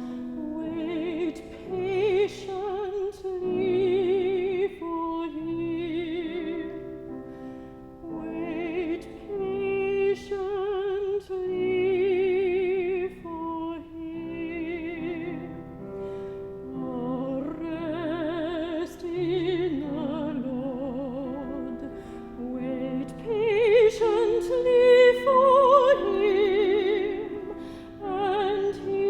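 Solo classical singer with strong vibrato, singing slow sustained phrases over a steady held-note accompaniment.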